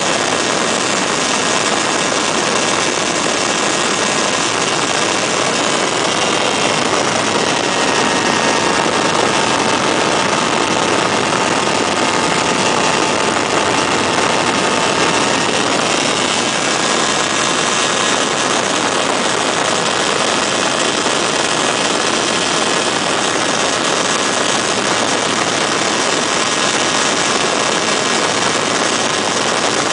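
Weedhopper ultralight's two-stroke engine and propeller running steadily under a loud, even rushing noise; a faint engine tone sags slightly in pitch about a third of the way in and recovers.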